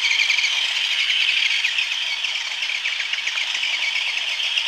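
Toy radio-controlled car's electric motor and gears whining steadily at high pitch, with a rapid crackling flutter over it.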